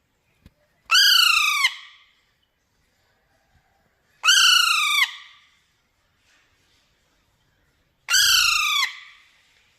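A parrot giving three loud calls a few seconds apart, each under a second long and falling in pitch.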